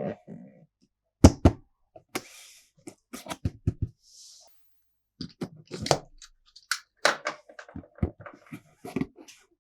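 Hard plastic toy pieces clicking, clacking and knocking together as they are handled. Two heavier thumps come about a second in, with brief scrapes between the taps.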